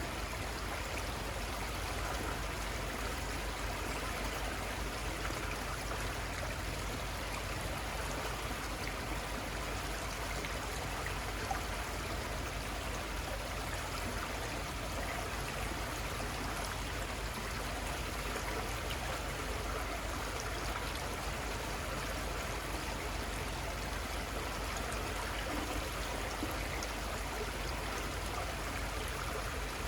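Steady, unbroken rush of a river's water flowing, with a low rumble underneath.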